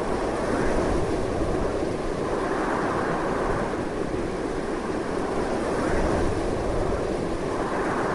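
Strong, continuous wind rushing and gusting, a dense steady noise that swells and eases slowly.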